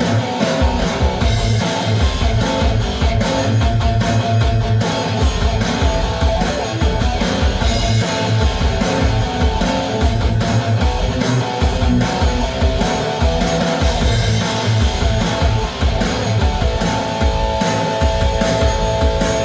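Electric guitar played with a pick in a continuous rock passage, with a fast, driving pulse in the low notes.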